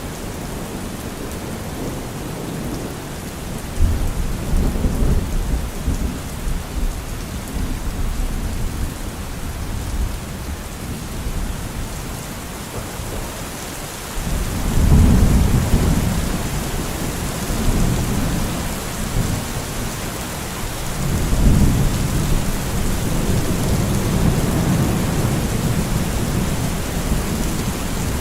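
Steady rain falling during a thunderstorm, with three long rolls of thunder rumbling in about four, fourteen and twenty-one seconds in; the one at about fourteen seconds starts the most suddenly and is the loudest.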